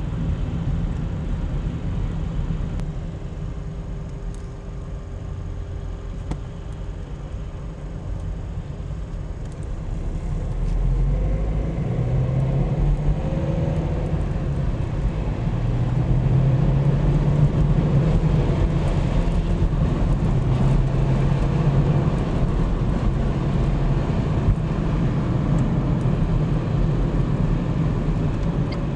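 A car driving, with steady engine and road noise; about ten seconds in the engine note rises and gets louder as the car picks up speed.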